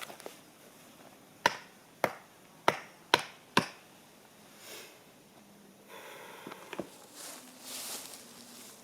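Five sharp knocks about half a second apart, each dying away quickly.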